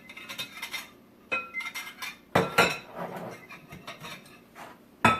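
A utensil clinking and scraping against a bowl as chicken is turned in egg wash and flour: several sharp, ringing clinks with softer scraping between them.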